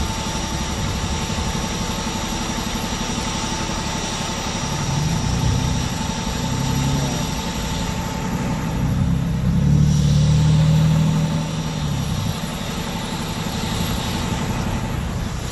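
A motor vehicle engine idling, its note swelling and bending up and down in the middle, over steady wind noise on the microphone.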